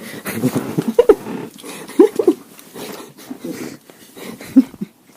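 A dog making several short vocal sounds, a whine or grumble each, the clearest about one second and two seconds in, as it is being woken up.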